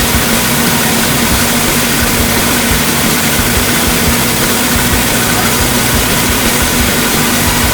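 Sawmill's Ford industrial engine running steadily with a constant hum and a dense mechanical hiss, no change in speed.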